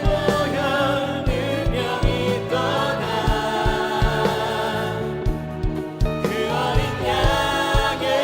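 Worship band playing a contemporary Christian praise song, with several voices singing held notes over a steady drum beat of about two hits a second.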